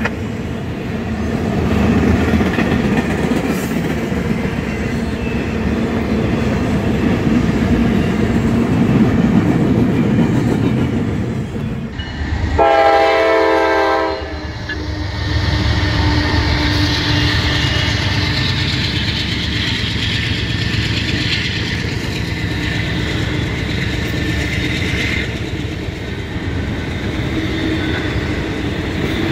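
Intermodal freight train rolling past with a steady rumble and clatter of wheels on the rails. About halfway through, a diesel locomotive's horn sounds one blast of about a second and a half. The next train then rolls past with the rumble of its wheels and a high hiss from the rails.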